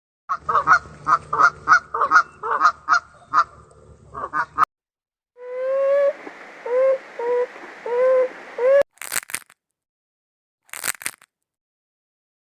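Waterfowl honking: a run of rapid honks, about three a second, then after a brief silence a slower series of lower honks that bend up and down in pitch. Near the end come two short, harsh bursts.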